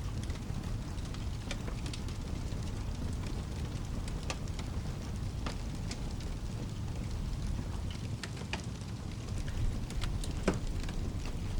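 Fireplace crackling with scattered sharp pops, one louder pop near the end, over a steady low rush of rain.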